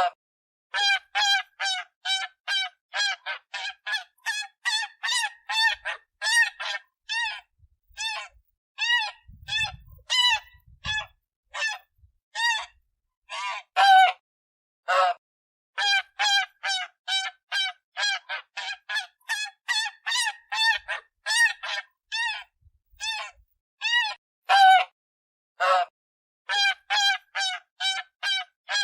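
Goose honking over and over in short, nasal calls, about two a second.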